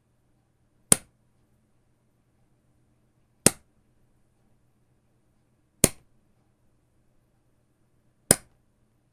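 Rubber band stretched and released, snapping four times about two and a half seconds apart, each a sharp crack that dies away at once.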